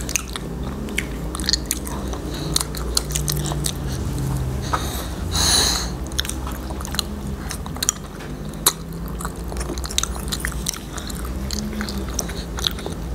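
Close-miked chewing and biting of sausages coated in nacho cheese sauce: wet mouth clicks and smacks, with a short breathy rush about five seconds in.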